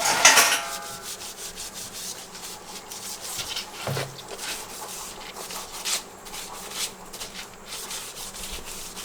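Removable fridge parts being scrubbed clean by hand: repeated rubbing strokes, after a short ringing clatter at the start as the part is handled.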